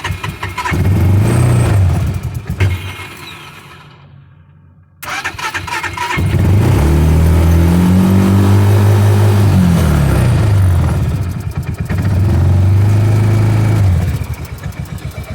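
UTV engine started by jumping the starter directly with a wire. It catches and revs briefly, then dies away. About five seconds in it fires again and is revved up and down twice before settling into a steady idle. The engine won't start on the key, a fault the owner puts down to a missing motor-to-battery ground.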